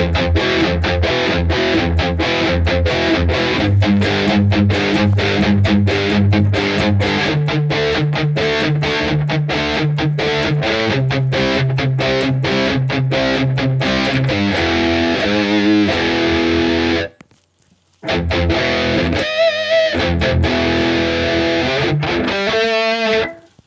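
High-gain distorted electric guitar, a Harley Benton Fusion 3 with ebony fretboard on its bridge humbucker, played through an amp-and-cab model with no other effects. It plays fast rhythm chugs, then longer ringing chords, with a short stop about three-quarters of the way through.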